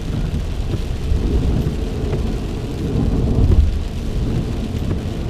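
Heavy rain on a moving car, heard from inside the cabin, with a deep, steady rumble that swells about three and a half seconds in.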